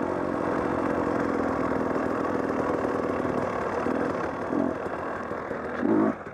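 Dirt bike engine running steadily at low speed, easing off a little after about four seconds, with a few short louder sounds near the end.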